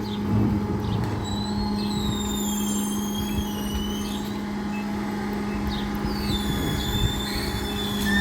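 Recycling truck's engine running steadily with a constant hum. Two spells of high, gliding squeaks sound over it, one a couple of seconds in and one near the end.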